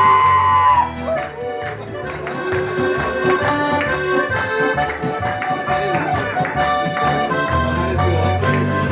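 Accordion-led folk band playing a lively instrumental intro, with a bass line underneath. A voice holds a high note through the first second.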